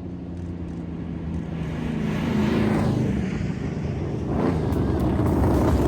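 Vehicle engine running and passing, swelling louder about two seconds in and again near the end.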